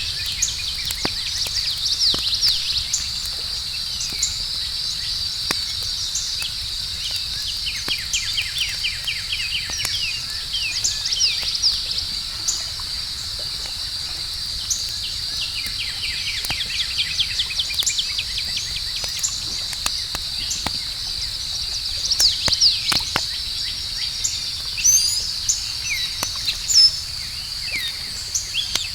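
Campfire crackling with scattered small pops over a steady, high-pitched chorus of night insects such as crickets, with quick runs of chirps coming and going.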